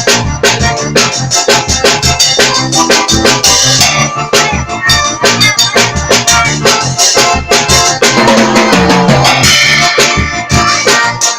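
Drum kit playing a steady beat, with kick and snare hits about three times a second, over music with sustained pitched notes underneath.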